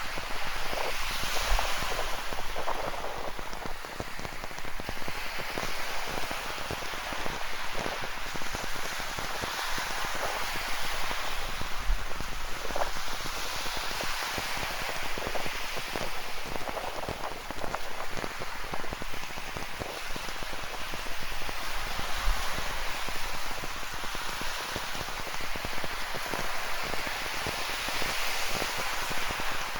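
Steady rain falling, with many close drop ticks over a rushing ocean surf that swells and fades every few seconds. A few dull low thuds come in between.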